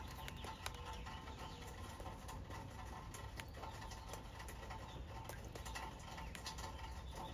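Faint outdoor ambience after a thunderstorm: a low steady rumble with scattered light ticks and patter of water dripping.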